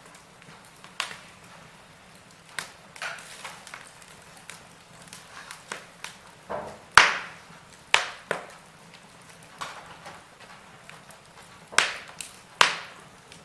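Wood fire crackling, with irregular sharp pops of varying loudness over a faint steady hiss. The loudest pop comes about halfway through, and two more strong ones come near the end.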